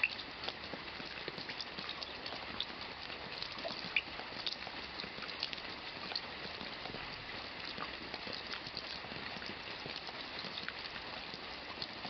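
Steady rain falling, many individual drops ticking and splashing over a constant hiss. A few louder drops stand out, one right at the start and one about four seconds in.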